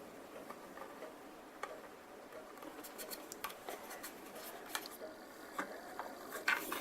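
Faint, intermittent scratching and small ticks of a hand scribing tool working along the plastic surface of a model kit, deepening a panel line.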